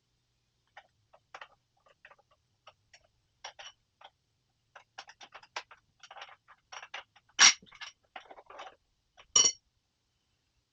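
Small metal clicks and clinks as a kick-start lever is handled and fitted onto a motorcycle's kick-start shaft, with two sharper metallic knocks about seven and nine seconds in.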